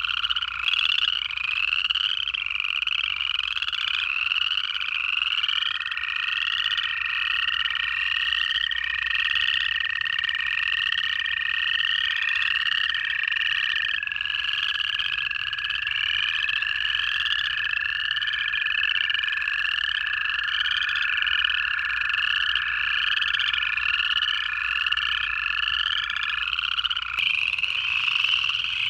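Pond chorus of upland chorus frogs giving rising trills over and over, about one a second. Beneath them run long, steady-pitched trills of American toads, several overlapping and each lasting many seconds.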